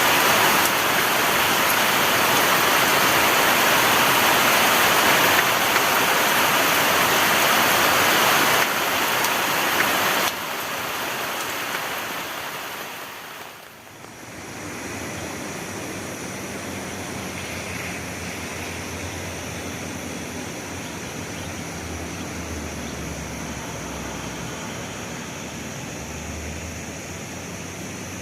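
Heavy rain falling in a steady, loud hiss. About ten seconds in it drops sharply and fades, then a quieter steady hiss of rain continues.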